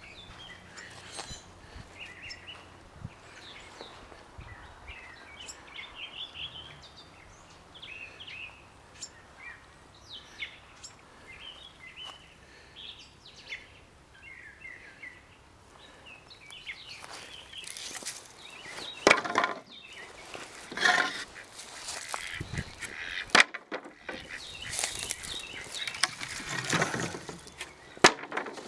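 Birds calling: many short chirps through the first half, then louder squawking bursts from about two-thirds of the way in.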